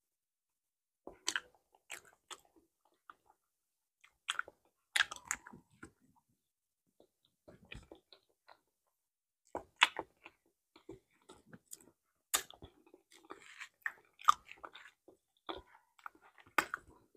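Close-miked mouth sounds of a person chewing soft, ripe banana: wet smacks and clicks at irregular intervals, with short silent gaps between them. Near the end, a banana is being peeled.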